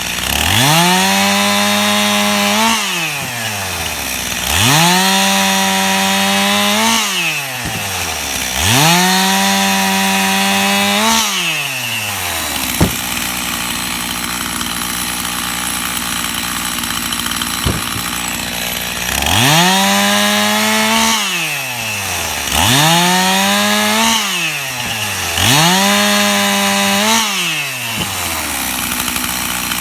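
Stihl two-stroke chainsaw revved to full throttle six times for cuts of about two seconds each through limb firewood, dropping back to idle between them. The engine holds a high, steady pitch under load. There is a longer idle in the middle, broken by two sharp knocks.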